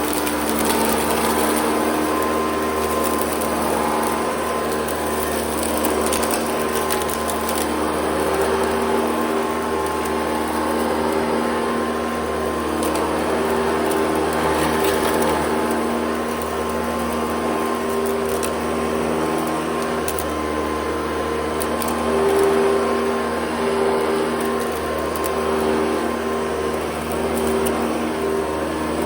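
Hoover Convertible U4363-045 upright vacuum cleaner with a 4.5 amp motor running steadily while vacuuming a rug: a constant hum and whine over rushing air, with scattered small ticks.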